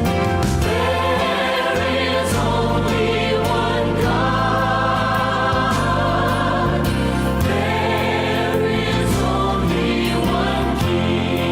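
A choir sings a hymn over sustained instrumental bass notes.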